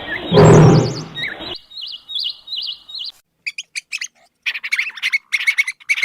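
Small birds chirping in quick warbling notes, with a loud rushing noise about half a second in. The second half holds rapid clusters of high squeaky chirps.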